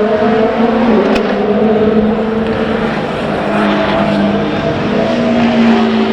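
Race car engines running on track: a loud, steady engine note with gentle shifts in pitch and a slight dip in loudness about halfway through.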